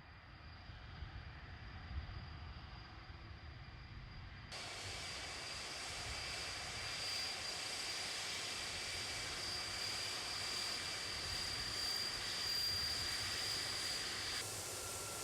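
Boeing 747-400 jet engines running: a steady rush of noise with a high, steady whine. The sound jumps abruptly louder and fuller about four and a half seconds in, and near the end the high whine gives way to a lower one.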